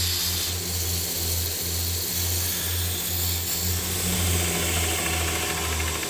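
Electric shop power tool running steadily: a low motor hum that pulses about twice a second under a steady grinding hiss.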